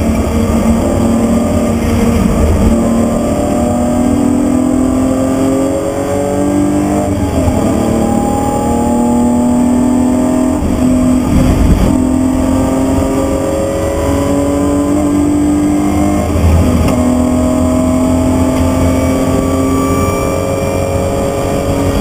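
BMW E36 323's 2.5-litre straight-six engine driven hard, heard from inside the cabin. The revs climb and then drop several times as the driver changes gear, over steady road and wind noise.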